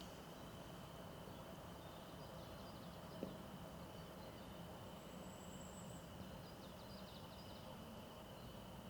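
Faint outdoor forest ambience: a quiet steady hiss with distant birds calling in short high phrases a few times. There is one sharp click about three seconds in.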